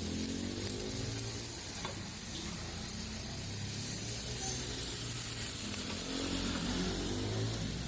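Food frying in oil on a flat iron tawa griddle, a steady sizzle. Underneath, a low engine drone rises and falls.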